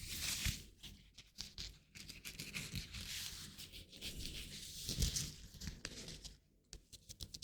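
Hands rubbing and brushing together close to the microphone, a rustling hiss that swells and fades with many small crackles and clicks.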